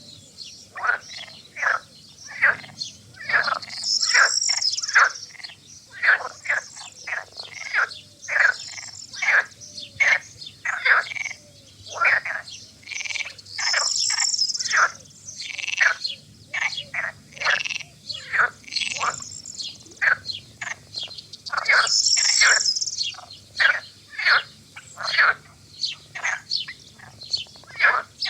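Frogs croaking in a chorus: a rapid, continuous run of short croaks, about two a second. A higher chirping call breaks in every several seconds.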